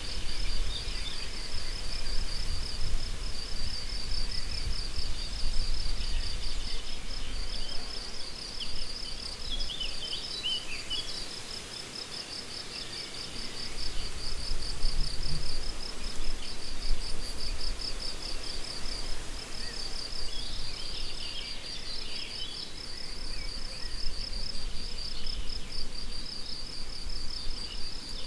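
Meadow crickets chirping in a steady, rapidly pulsing stream, with short songbird calls coming in now and then.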